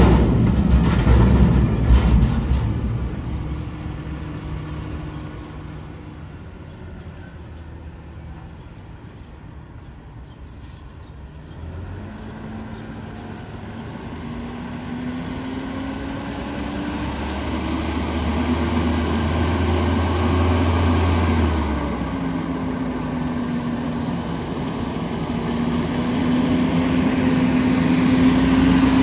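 Peterbilt 520 front-loader garbage truck's diesel engine running, with a few clanks in the first couple of seconds. About twelve seconds in the engine revs up, its pitch climbing steadily; it drops back about twenty-two seconds in and climbs again near the end.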